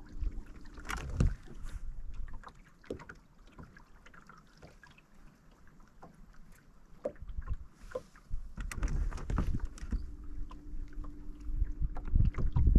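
Fishing-boat sounds with wind rumbling on the microphone and scattered clicks and knocks. A low steady hum is heard at the start and again from about ten seconds in, and the middle is quieter.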